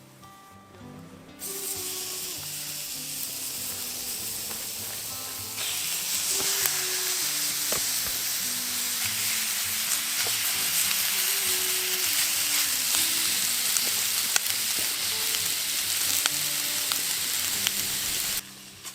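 Food sizzling in a hot pan, an even frying hiss. It starts suddenly about a second in, gets louder about five seconds in, and cuts off shortly before the end.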